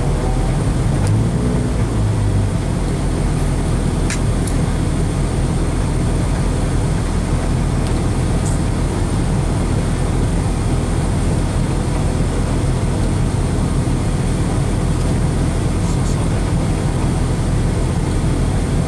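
A rally car's engine idling steadily, heard from inside the cabin, with a few faint clicks over it.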